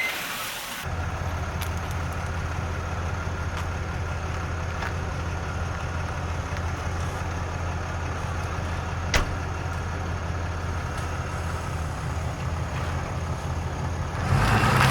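A vehicle engine running steadily at an even speed, starting about a second in, with one sharp click about nine seconds in.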